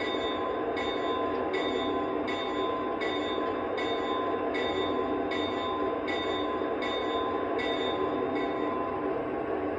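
Lionel Legacy RailSounds diesel bell on an AC6000 model locomotive, ringing steadily at about four strikes every three seconds over the idling diesel engine sound, played through the model's own speaker. The bell stops shortly before the end.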